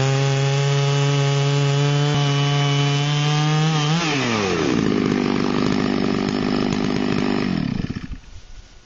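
Chainsaw mill running at full throttle as it rips through a log to finish the cut. About four seconds in the throttle is released and the engine note falls to idle. The saw is shut off about eight seconds in.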